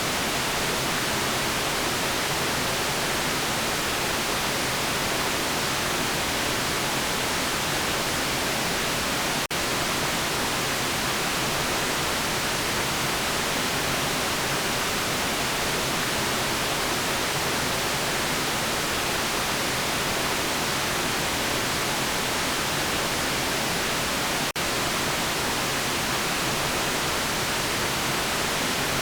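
Steady synthetic white noise, an even bright hiss with no tones or rhythm, broken by two momentary dropouts about fifteen seconds apart.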